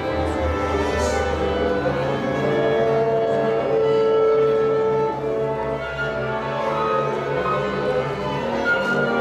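Orchestral music led by bowed strings, with held notes over a pulsing low bass line.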